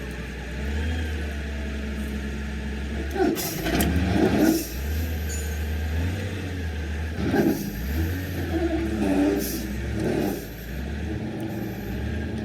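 An engine running low and steady, its speed stepping up and down a few times, with several metallic knocks from about three seconds in.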